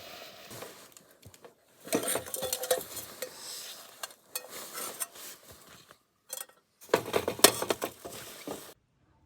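Clinking and clattering of dishes and cutlery being handled, in two busier bursts about two seconds in and again near the end, cutting off suddenly.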